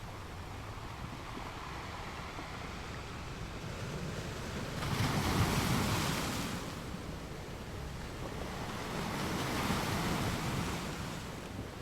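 Small ocean waves breaking and washing up a beach, two waves surging louder about five seconds in and again near the end, over a steady background hiss of surf.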